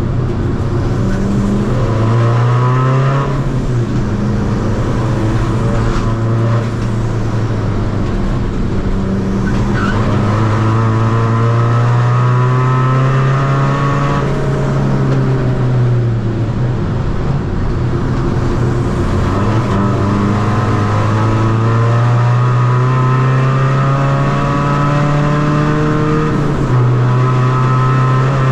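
Tuned Seat Ibiza FR 2.0 common-rail diesel engine with race camshafts being driven hard. The revs climb, drop briefly at gear changes, fall away, then climb again several times.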